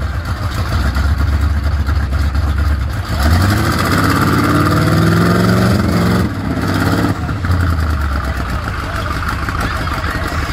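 Off-road 4x4 engine running with a low drone, then revving: its pitch climbs for about three seconds before dropping off sharply, and it keeps running afterwards. A steady hiss of noise sits behind it.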